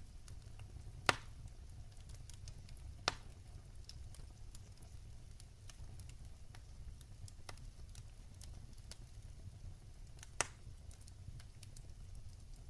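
Wood fire burning in a fireplace: a steady low rumble with scattered small crackles, and three sharper pops, about a second in, about three seconds in, and near the end.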